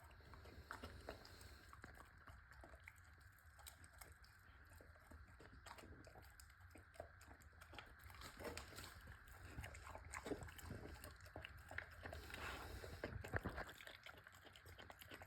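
A pitbull chewing and biting boneless grilled meat: faint, irregular wet chews and crunches, busier and louder in the second half.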